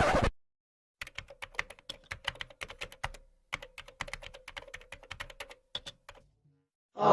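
Computer keyboard typing: quick, irregular keystrokes for about five seconds, with a short pause in the middle. A brief loud burst of noise cuts off just after the start, and a loud new sound begins at the very end.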